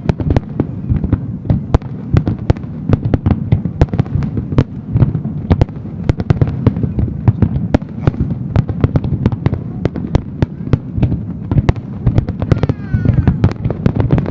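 Fireworks finale: a dense, rapid barrage of aerial shell bursts, many bangs a second overlapping into a continuous rumble. A brief whistling shell rises and falls near the end.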